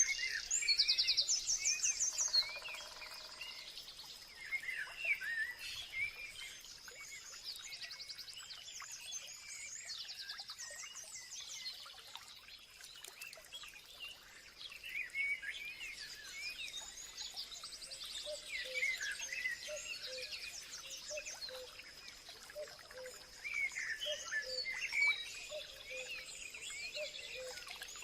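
A chorus of several songbirds calling and singing at once: many short chirps and rapid trills overlapping, loudest in the first few seconds. A faint steady high-pitched tone runs underneath.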